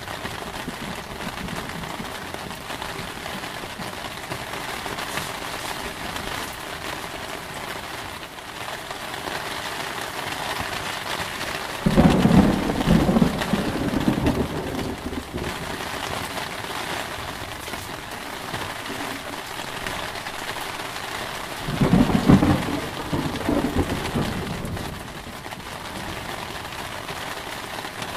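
Steady heavy rain falling, with two claps of thunder that start suddenly and rumble for a couple of seconds each, about twelve and twenty-two seconds in.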